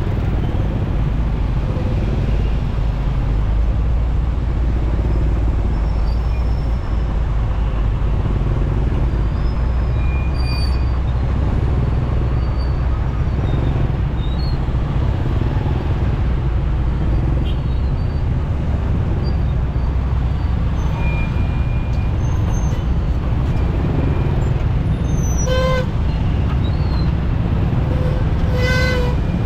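Steady rumble of a motorcycle ride through heavy city traffic, engine and road noise together. Two short horn honks sound near the end.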